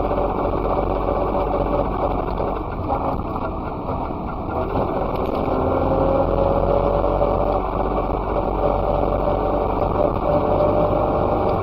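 Messerschmitt KR200 bubble car's single-cylinder two-stroke engine running steadily as the car drives, its pitch rising a little about halfway through.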